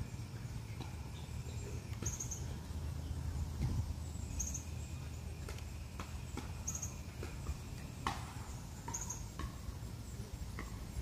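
A small bird gives a short high chirp about every two and a half seconds, over a low steady outdoor rumble.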